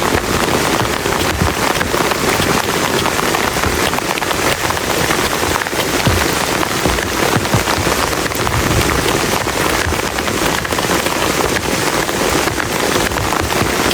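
Heavy rain falling steadily, a loud dense hiss with countless close drop impacts.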